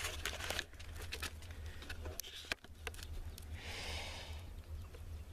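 Handling noise: scattered small clicks and knocks over a steady low rumble, with a brief rustle about four seconds in, as purchased items are brought out to be shown.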